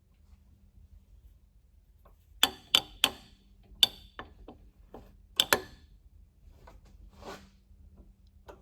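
Sharp metal-on-metal clinks and knocks, about half a dozen in quick succession, as a carburetor is shifted and set in a milling-machine vise, then a few fainter taps near the end. A faint steady hum underneath.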